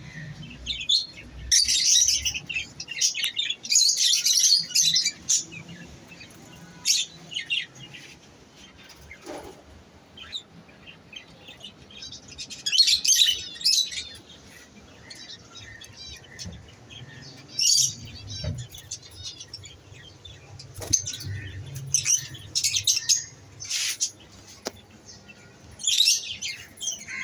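Pet lovebirds chirping in shrill bursts, with flurries of rapid chirps every few seconds and short pauses between.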